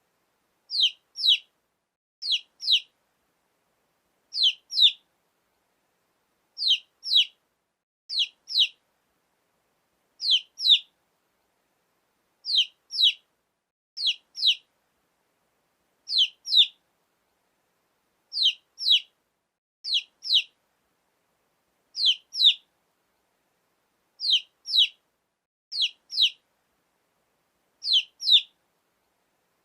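Baby chick peeping: pairs of short, high, downward-sliding peeps repeated about every two seconds, with dead silence between the pairs.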